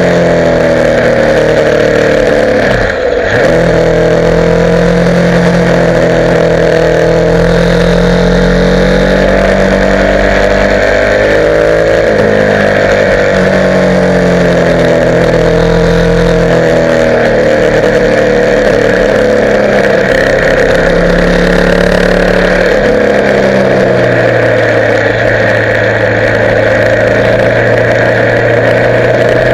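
Motorcycle engine running while riding, its pitch rising and falling with throttle and gear changes. The engine note drops sharply and briefly about three seconds in, under a steady rushing noise.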